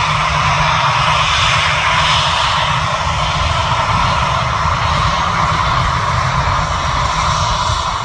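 Airliner's jet engines roaring steadily as it comes in to land, a loud continuous roar with a deep rumble underneath.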